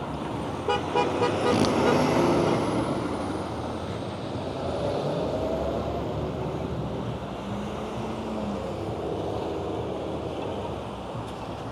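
Road traffic passing on a nearby street, a steady wash of vehicle noise that swells about two seconds in as a vehicle goes by.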